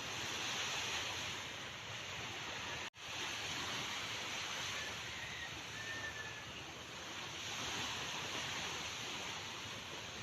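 Sea waves washing in as a steady rush of surf that swells and eases every few seconds. The sound drops out suddenly for a split second about three seconds in.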